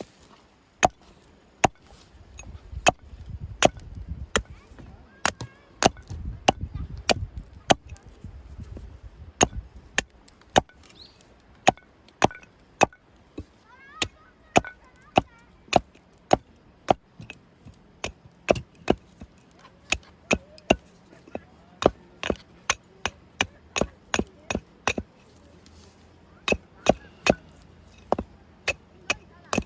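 Wood being chopped: a long run of sharp, single strikes of a blade into wood, about one or two a second, coming quicker near the end.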